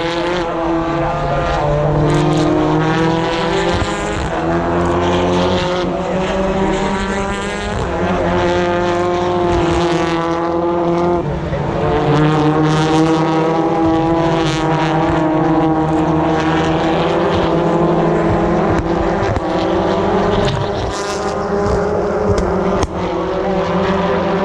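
British Touring Car Championship race cars with 2-litre turbocharged four-cylinder engines going past at racing speed, several engines at once, one after another. Their notes overlap and keep sliding up and down in pitch as each car passes.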